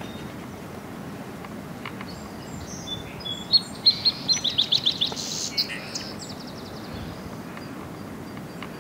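A songbird singing over steady background noise: a few clear chirps about three and a half seconds in, then a quick trill of about eight repeated notes, and a short, faster, higher trill a second later.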